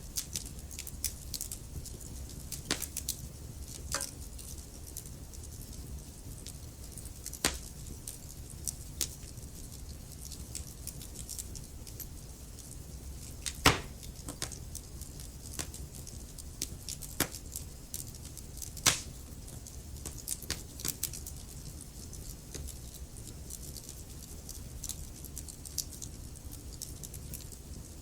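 Wood fire crackling in a fireplace: irregular sharp pops and snaps over a low steady rumble, with two louder pops about halfway and two-thirds of the way through.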